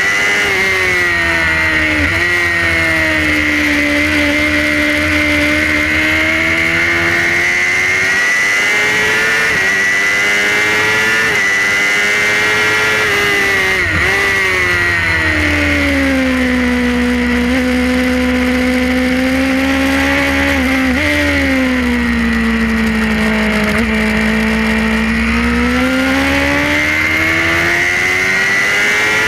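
Suzuki GSX-R's inline-four engine running hard at racing speed, heard onboard: the pitch falls as the bike slows, with a few quick blips and dips as it shifts, then climbs again as the throttle opens, several times over.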